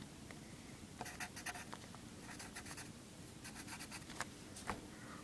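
Faint pen scratching on a paper instruction sheet, in several short runs of quick strokes with a few single ticks between.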